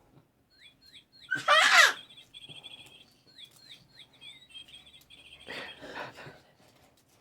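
Birds chirping repeatedly, with a loud, brief cry falling in pitch about a second and a half in and a rougher, noisier sound near the end.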